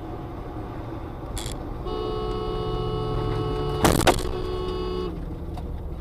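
Road and engine noise heard from inside a vehicle, a car horn held for about three seconds, and a loud crash-like impact about four seconds in while the horn is still sounding, typical of a road collision.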